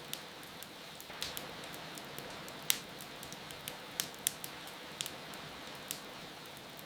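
Wood fire crackling with scattered sharp pops, the loudest a little under three seconds in, over a steady hiss of falling rain.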